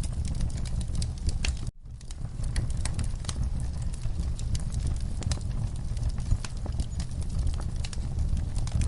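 Wood fire crackling and popping over a low rumble of flames. The sound cuts out for a moment about two seconds in, then returns.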